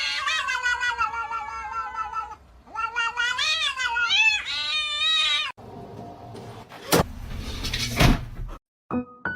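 A cat meowing in two long, drawn-out calls, the first slowly falling in pitch, the second wavering up and down. After them comes a stretch of rustling noise with two sharp knocks.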